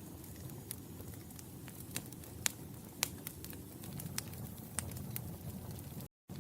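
Wood fire in a fireplace crackling, with scattered sharp pops over a steady low rumble of flames. The sound cuts out completely for a split second near the end.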